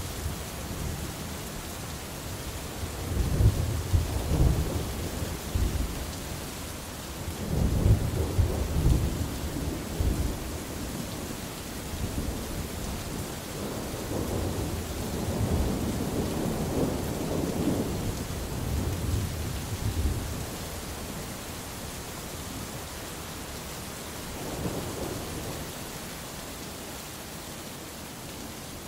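Thunderstorm: steady rain falling, with rolling thunder that rumbles in heavy waves about 3 seconds in, again about 8 seconds in, a long roll through the middle, and a fainter rumble near the end.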